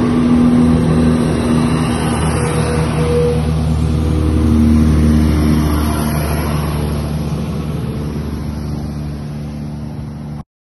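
A train passing, its engine and running noise loud for about five seconds and then fading away, cut off suddenly near the end.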